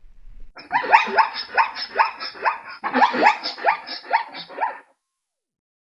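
Zebra calling: a series of about ten short, bark-like yelps in two runs, about two a second, stopping a second before the end.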